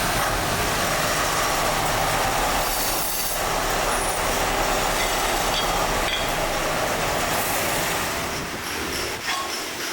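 Factory machinery running: a loud, steady mechanical noise with thin high squealing tones over it.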